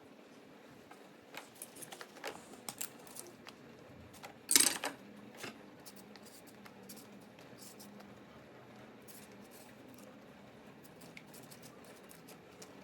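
Small clicks and clinks of objects being handled, with one louder clatter about four and a half seconds in, then a faint steady rush of background water.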